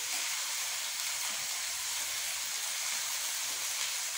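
Broccoli frying in hot oil in a pan: a steady sizzle with no break.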